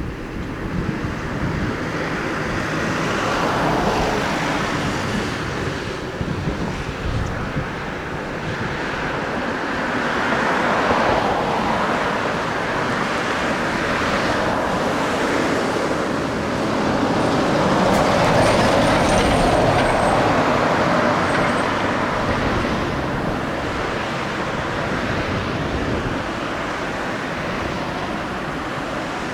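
Kawasaki XC-2 transport's twin turbofan engines running: a continuous jet rush that swells and eases slowly several times.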